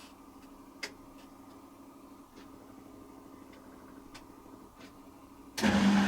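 Hoover Quattro Easylogic AE130 washing machine pausing between stages of its rinse and spin programme: a low hum with a few light clicks and one sharper click about a second in. Near the end, a loud rushing sound with a steady hum starts suddenly as the next stage of the cycle begins.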